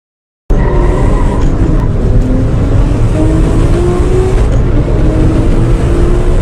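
Car engine at full throttle, accelerating hard. It starts abruptly about half a second in. Its pitch climbs steadily and drops back at two upshifts, a little before halfway and about two-thirds of the way through.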